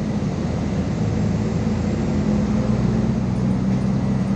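MAZ 216.066 articulated city bus under way: a steady engine drone with road and running noise.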